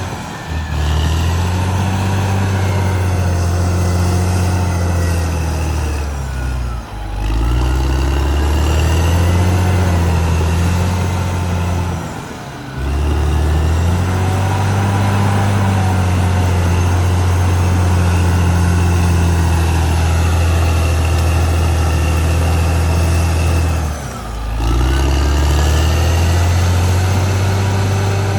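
Caterpillar D6R XL bulldozer's diesel engine running under load. The engine note dips and climbs back four times: just after the start, at about 7 s, at about 12 s and at about 24 s.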